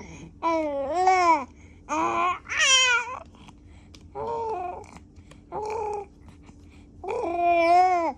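A three-month-old baby cooing and babbling in about six separate drawn-out vowel sounds. The pitch arches up and down, and one sound about three seconds in goes higher than the others.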